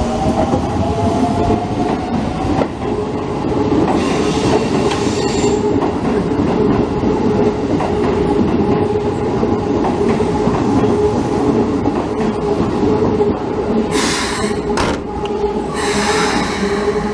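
Electric commuter train running through a station with a steady loud rumble of wheels and a held motor tone. The motor whine rises in pitch at the start. Brief high hissing bursts come about four seconds in and again near the end.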